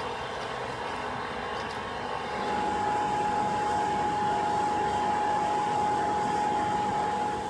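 A machine running steadily with a rushing noise; a steady whine comes in about two seconds in, a little louder, and stops near the end.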